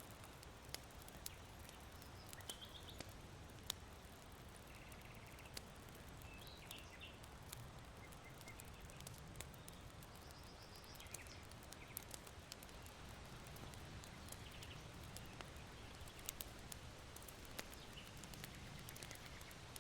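Faint charcoal fire in an irori hearth crackling, with sharp pops scattered irregularly, over a steady low rush of wind. Distant small birds give short high chirps several times.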